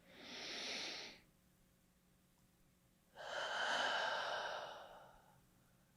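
A person taking a slow deep breath: a breath in at the start, then a longer, louder breath out about three seconds in.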